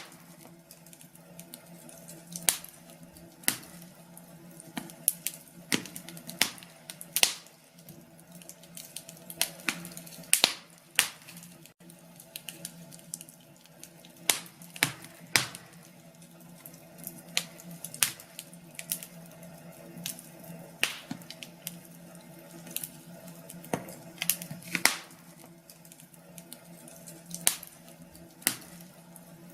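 Wood fire in a fireplace crackling, with irregular sharp pops and snaps, a few a second, some much louder than others, over a faint steady hum.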